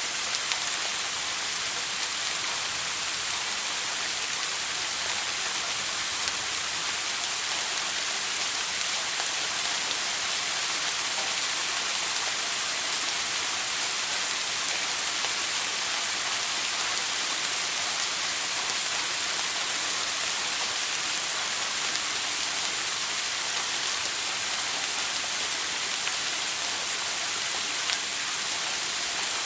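Shower running: water spraying and pattering steadily onto a surface as an even hiss.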